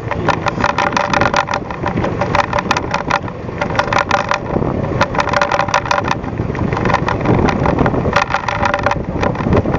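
Fishing boat under way, its engine running steadily, with a dense run of short sharp knocks and splashes over it.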